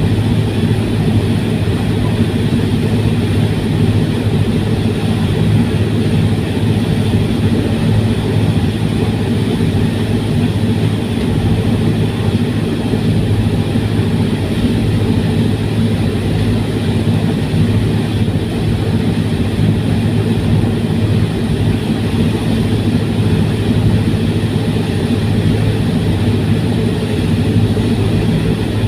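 OceanJet 3 fast ferry's engines running steadily at cruise, a loud constant drone with a low hum and hiss of wind and water over it.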